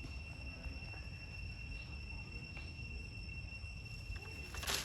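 Steady high-pitched drone of insects, one unbroken tone, over a low outdoor rumble, with a brief sharp rustle or knock near the end.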